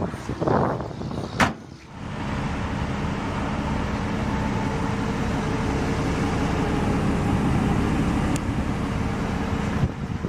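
Steady hum of road traffic, with a single sharp knock about a second and a half in.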